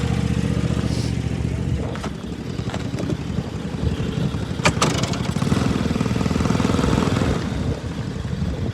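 Lawn mower engine running, a steady even hum for the first two seconds, then a rougher, uneven rumble, with a few sharp clicks over it.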